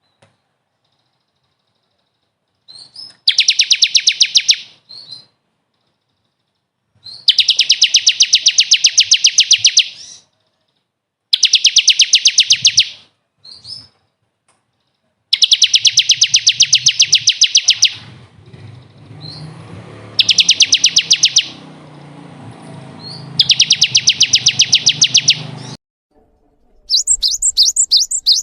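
Recorded songbird song of the kind played as 'masteran' to teach captive birds: fast, high trills of rapidly repeated notes in bursts of one to three seconds, six times, with silent gaps between. Near the end a different rapid series of rising chirps begins.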